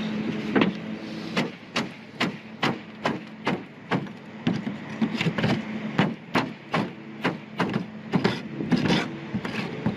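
A hand tool striking repeatedly on a metal roof, about two to three sharp knocks a second, chipping loose old caulking from a patch. A steady low hum runs underneath.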